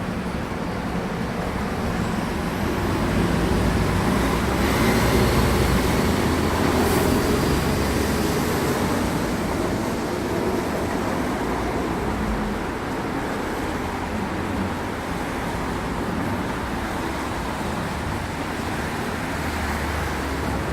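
Road traffic going by: a steady rumble of engines and tyres that swells as a vehicle passes a few seconds in, then settles.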